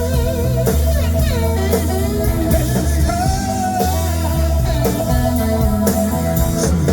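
Live band playing a rock-blues song, with drums and bass under a melodic lead line that slides and bends in pitch between the sung lines.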